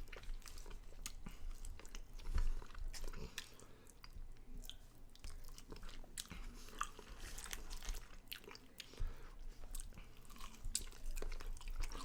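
Close-up sounds of a person eating chicken wings: irregular wet chewing, lip smacks and small bites, no speech.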